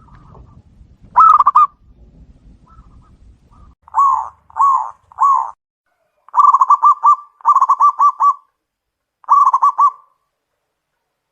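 Zebra dove (perkutut) cooing loudly: a short call about a second in, three separate coos around four seconds in, then quick rolling trill-like coo phrases that stop near the end.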